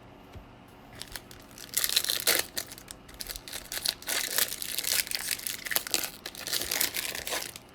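Foil wrapper of a trading-card pack crinkling and tearing as it is opened. A dense run of crackles starts about two seconds in and stops just before the end.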